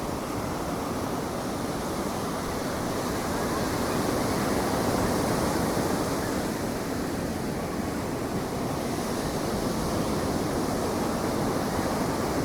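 Ocean surf washing steadily onto the beach, a continuous rushing noise that swells slightly around the middle, with some wind on the microphone.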